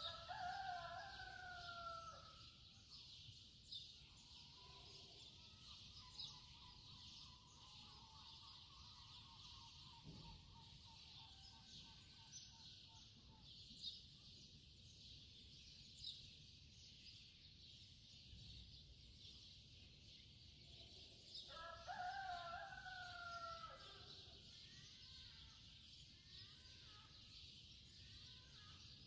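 Faint bird calls over a steady high hiss: a falling call near the start and again about 22 seconds in, with a wavering whistled call in between.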